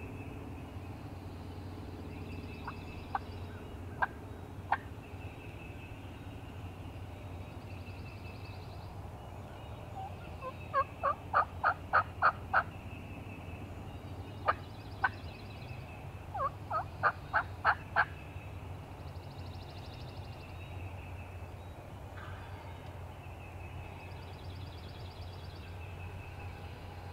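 Turkey yelps: runs of short, sharp notes, the loudest a run of about eight over two seconds near the middle and another of about six a few seconds later, with a few single notes around them. Faint songbirds call in the background.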